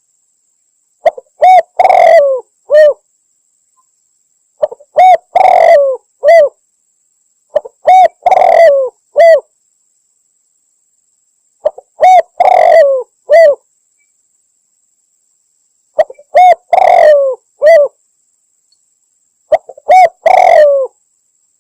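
Spotted dove cooing: six phrases, about one every three and a half seconds, each of three or four clear coo notes with the longest in the middle, and silence between phrases. It is a hunting lure call, given as a female calling to males.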